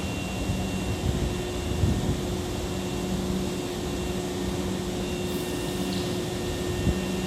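Steady hum of a Hankyu 6000 series electric train standing at the platform: its air conditioning and onboard equipment run at an even pitch with a few constant tones.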